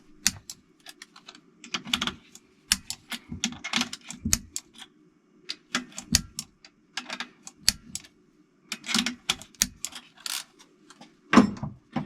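Irregular clicks and clinks of hand tools and small metal parts being handled on an engine's cylinder head, over a faint steady low hum.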